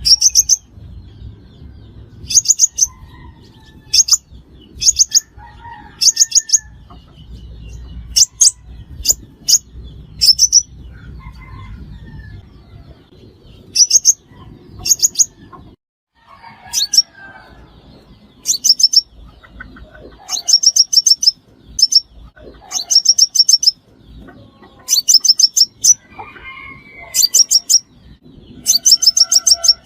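Sunbird calling: short, very high, rapid twittering trills, repeated over and over every second or two, with fainter, lower chirps between them. Used as a lure call for trapping sunbirds.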